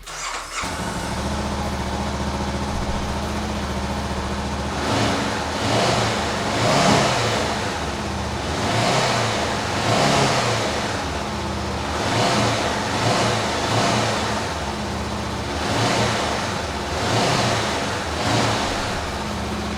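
2020 Honda CB500F's parallel-twin engine starting and catching, settling into a steady idle, then revved up and down in a series of throttle blips.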